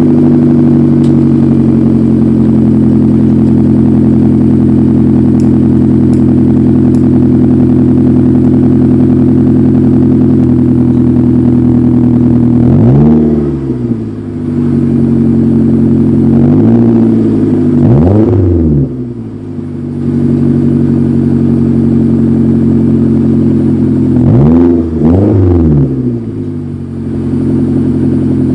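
Toyota Avanza fitted with an aftermarket racing exhaust, idling steadily, then given a few quick throttle blips in the second half. Each rev rises and drops back to idle.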